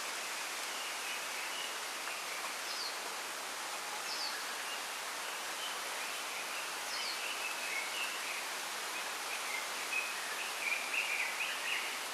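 Bamboo leaves rustling in the wind as a steady hiss, with small birds chirping and twittering throughout; a few quick, higher falling notes stand out, and the chirping grows busier and a little louder near the end.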